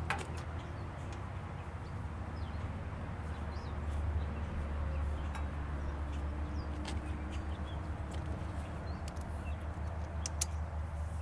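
A steady low mechanical drone with a fluttering texture, with faint high chirps and a few sharp clicks over it.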